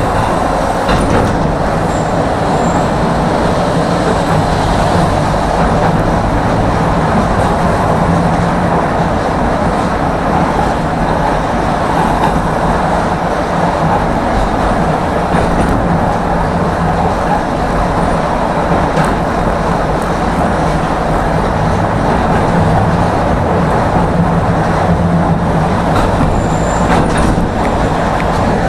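Tram running along its line, heard from inside the car: a steady rumble of wheels on rails with a low motor hum, and a few faint clicks.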